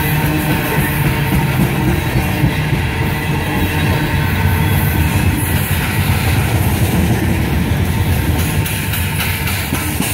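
Loaded coal train's aluminum gondola cars rolling past close by: a steady, continuous rumble of steel wheels on rail. Guitar-driven rock music plays over it.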